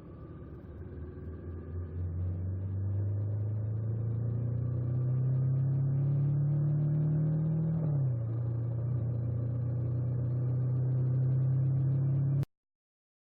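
Honda 400X motorcycle's parallel-twin engine pulling, its pitch climbing steadily for several seconds, then dropping quickly about eight seconds in as at a gear change and holding steady. It cuts off abruptly near the end.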